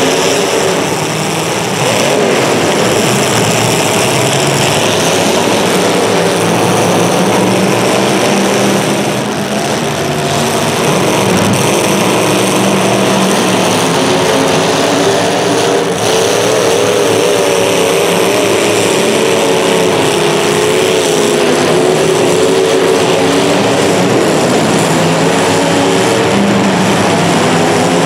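Racing engines running continuously during a heat, with a wavering pitch as the vehicles speed up and slow.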